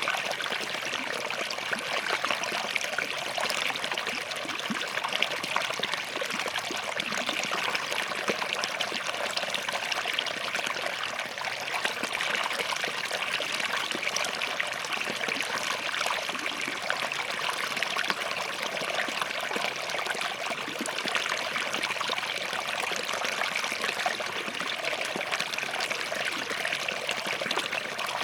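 Shallow forest stream running and trickling over rocks, a steady babbling with fine splashes.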